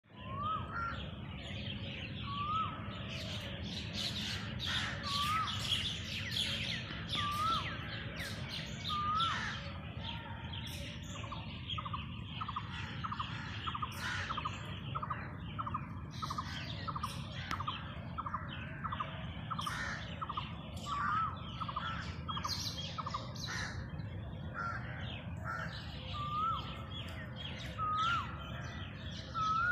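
Several birds calling and chirping together. One short rising whistled call repeats about every two seconds, and a quick run of short repeated notes comes in the middle, over a steady low hum.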